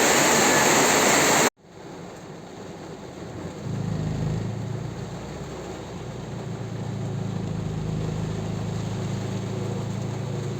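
Heavy tropical rain pouring, cut off suddenly about a second and a half in. It is followed by a quieter hiss and a low steady engine-like hum that grows louder from about four seconds in.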